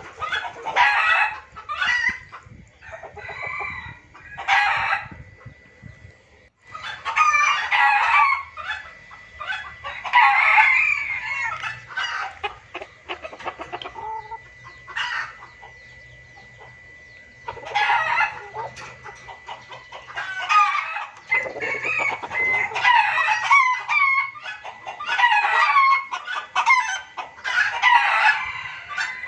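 Junglefowl giving noisy, agitated calls: bursts of rapid clucking and cackling broken by short pauses, the kind of recording played as a lure for wild junglefowl. A faint steady high tone runs underneath through the middle stretch.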